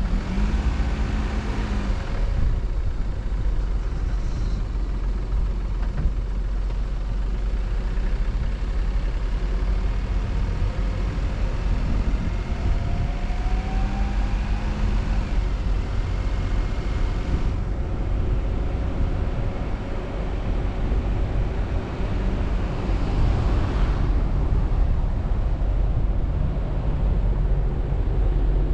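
Car driving: a steady low rumble of engine and road noise, with the engine note rising briefly about halfway through as the car accelerates.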